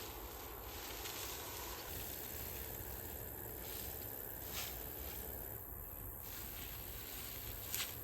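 Faint, steady hiss of background noise, with a soft click about halfway through and another near the end.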